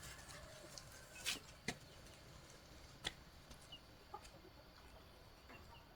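Chickens clucking faintly, with a few sharp clicks or knocks in the first three seconds.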